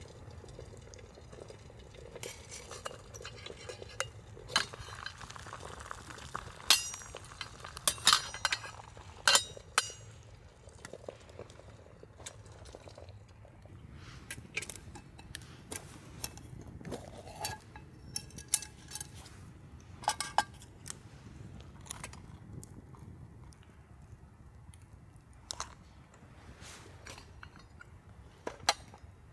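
Metal cookware and utensils clinking and clattering: irregular sharp clinks, some briefly ringing, as pots and utensils are handled.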